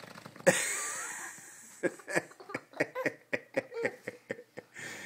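A small boy making fart noises with his mouth: one loud spluttering blast about half a second in, then a quick string of short puffs, about four a second.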